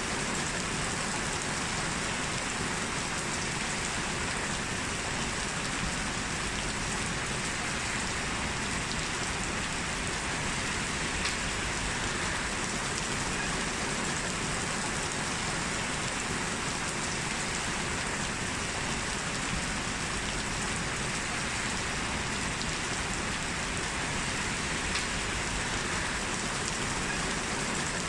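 Heavy rain falling steadily on a street, an even hiss of drops with a faint tick or two standing out.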